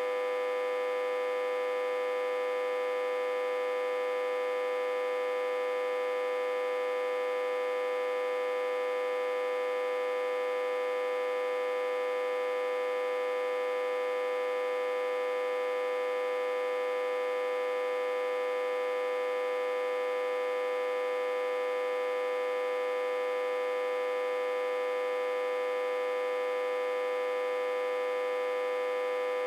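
Autotransformer humming, reverse-connected to a step-down transformer with about 60–80 V on its input. It is a steady, unchanging electrical hum: one strong tone with many overtones above it.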